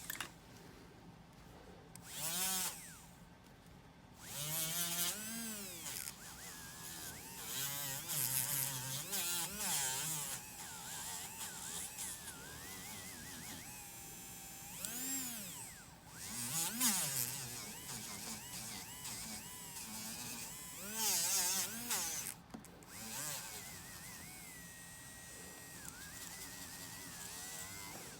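Small electric rotary tool running in short bursts, its pitch rising and falling as the speed changes, with a high hiss in each burst.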